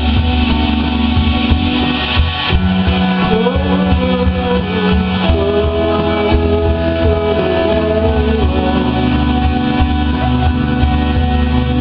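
Rock band playing live: electric guitar over bass, drums and synthesizer, with held notes and a wavering melody line through the middle.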